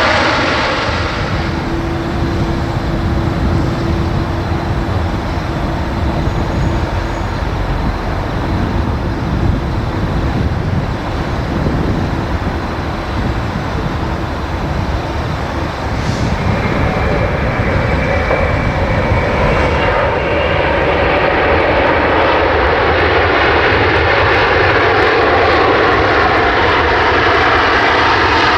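Large jet airliners landing: a loud, continuous rush of jet engine noise with a faint steady whine, growing louder about two-thirds of the way through.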